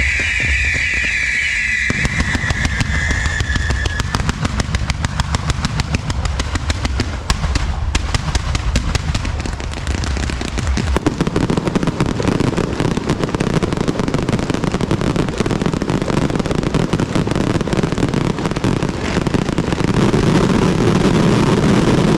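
Fireworks and firecrackers going off in rapid, continuous crackling bursts, growing denser about halfway through. A high pitched tone fades out in the first few seconds.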